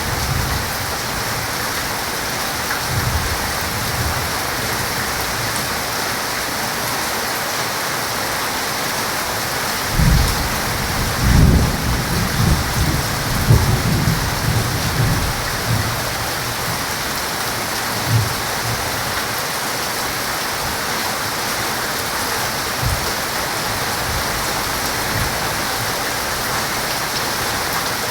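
Heavy rain falling steadily, with thunder rumbling low in several rolls from about a third of the way in and a shorter rumble a little later.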